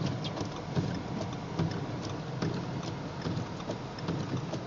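Economy car rolling slowly through deep snow, heard from inside the cabin: a low, steady engine and tyre rumble with frequent short clicks about every half second.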